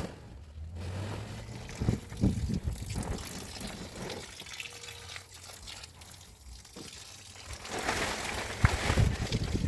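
Water splashing and trickling unevenly, with scattered low knocks, louder near the end.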